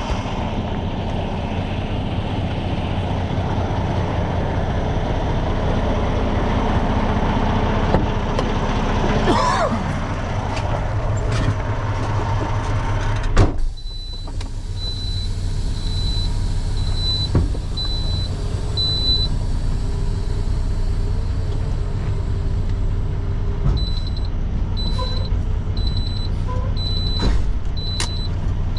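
Semi truck's diesel engine running in the cab, with one loud clunk about halfway through. After the clunk an in-cab electronic chime beeps steadily, in two runs with a pause between, like the seatbelt warning chime the driver points out earlier.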